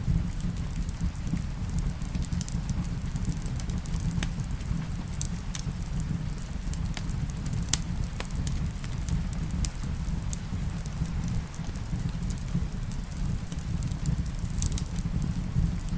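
Wood fire crackling in a fireplace, with scattered sharp pops and one louder pop about halfway through, over a steady low rumble of rain.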